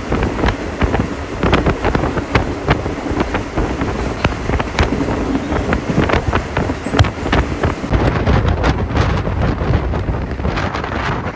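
Moving passenger train: wind buffeting the microphone over the low rumble of the running gear, with frequent irregular rattles and clacks from the carriage and track.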